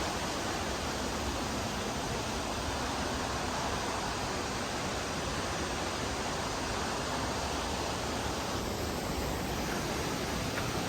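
Steady rushing noise of falling water from a waterfall and creek, even and unbroken.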